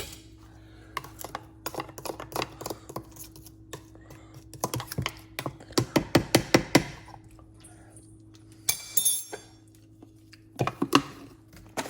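Clattering and knocking of a milkshake being remixed in its cup or blender jar: scattered clicks and taps, then a quick run of knocks about halfway through, over a steady low hum.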